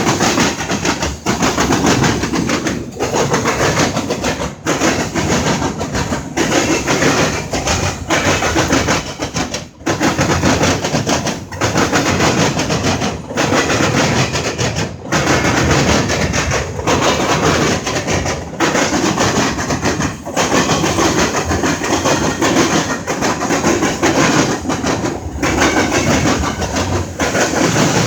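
Railroad train passing at close range: a loud, steady rumble and clatter of wheels on the rails, with short dips every second or two as the cars go by.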